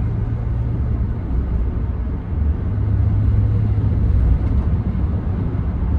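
Inside the cab of a 2014 Ram 1500 with the 5.7 Hemi V8 under way: a steady low engine and road rumble, a little louder after a brief dip about two seconds in.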